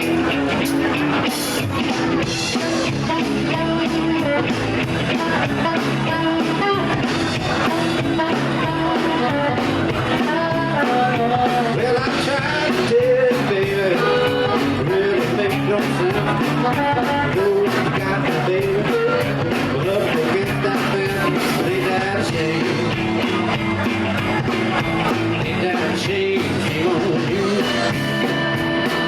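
Live electric blues band playing, lead guitar over bass and drums, with bending, sliding melody lines.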